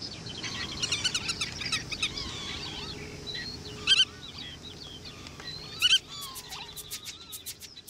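Meadow birds calling: a busy run of chirps and short whistled notes, then two louder, sharp calls about four and six seconds in.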